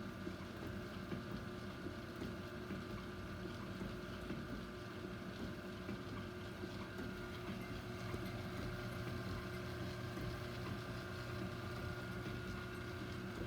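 Small South Bend metal shaper running at a very slow speed setting: a steady electric-motor hum with the machine's mechanical running noise.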